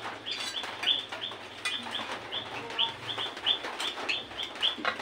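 A small bird chirping over and over, short high notes about four a second.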